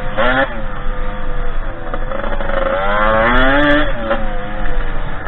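Derbi 50cc two-stroke engine on a dirt bike revving up and down under riding throttle: a quick blip right at the start, a longer climb in revs about three seconds in, then dropping back.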